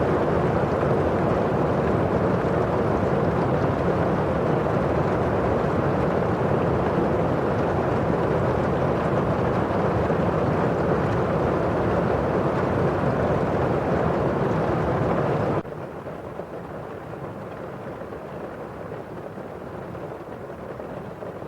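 Steady rain ambience: a constant muffled hiss of rain on window glass and falling outside. About three-quarters of the way through it drops suddenly to a quieter, duller level.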